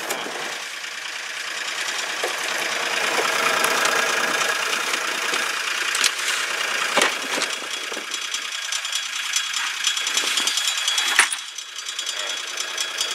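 International tractor's diesel engine running with a steady, rapid clatter, with a few sharp knocks, the loudest about eleven seconds in.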